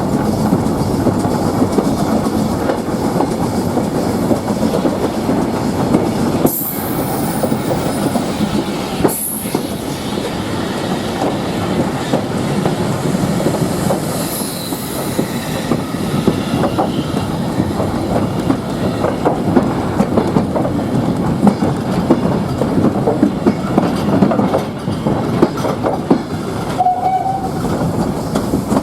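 Train running along the track, its wheels clattering steadily over the rails, with a brief high tone near the end.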